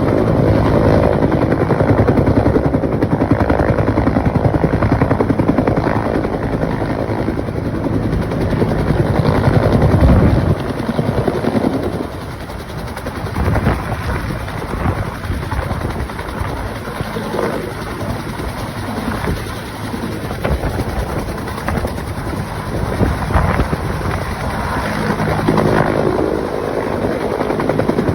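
Helicopter running overhead, its rotor beating rapidly and steadily over the engine noise. It is louder for the first twelve seconds or so, then drops somewhat quieter.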